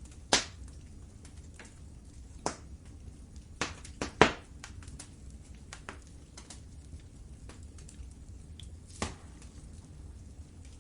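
Wood fire crackling in a fireplace, with scattered sharp pops, the loudest near the start and a cluster about four seconds in, over a steady low rumble of the flames.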